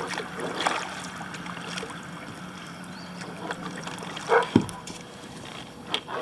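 Kayak paddling: blades dipping and water splashing and dripping off the paddle, with a few short, sharper sounds, the loudest a little over four seconds in.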